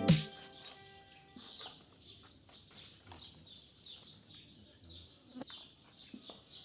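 Small birds chirping faintly and repeatedly, short falling chirps a few times a second, with a few light clicks.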